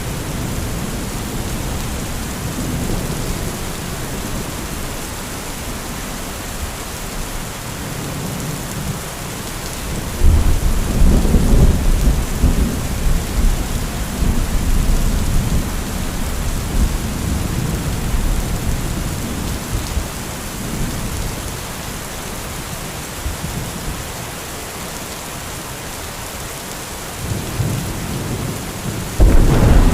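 Steady heavy rain with thunder: a sudden loud clap about a third of the way in that rumbles on for several seconds, and another clap breaking near the end.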